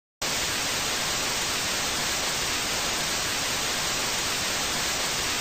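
Steady, even hiss of static white noise that starts abruptly a moment in and holds unchanged.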